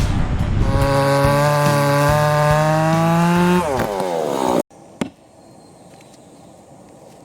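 Chainsaw engine revving at a high, steady pitch that creeps slightly upward, then winding down as the throttle is released about four seconds in. A single sharp click follows in the quiet about five seconds in.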